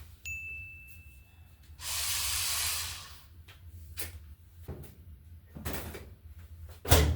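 Household cleaning sounds over a low steady hum. There is a brief high steady tone, then about a second of loud hissing. Light clicks and knocks follow, ending in a louder knock near the end.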